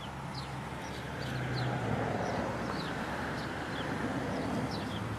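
Outdoor ambience: a steady rushing background with a low hum, and small birds giving many short, high, falling chirps throughout.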